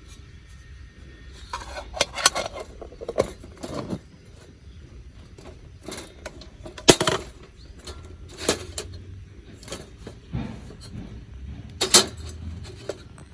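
Metal camping cookware and gear being handled and set down: scattered clinks and clanks with a short ring. The loudest knocks come about 7 seconds in and near the end.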